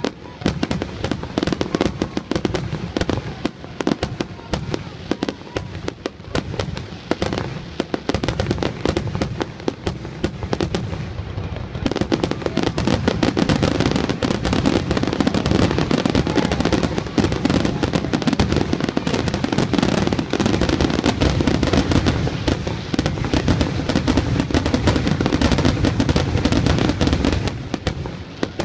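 Fireworks finale: aerial shells launching and bursting in quick succession with crackle. About twelve seconds in the bursts thicken into a louder, near-continuous barrage, which thins again just before the end.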